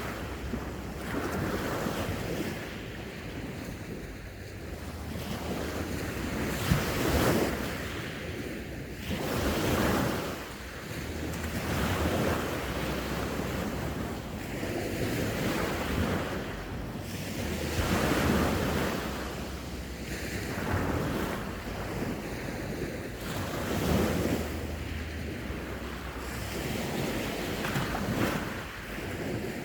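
Sea waves breaking and washing ashore, swelling and fading every few seconds, with wind buffeting the microphone.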